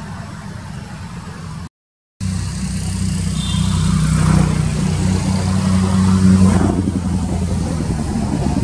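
A motor engine running steadily, with a short gap of silence about two seconds in; it comes back louder and swells a little before easing.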